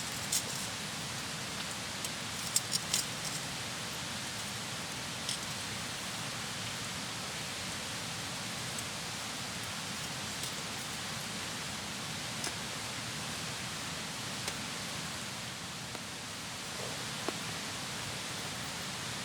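Steady hiss of rain falling, with a few sharp clicks, most of them in the first three seconds.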